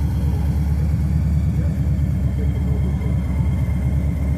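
Car engine idling with a steady, pulsing low rumble.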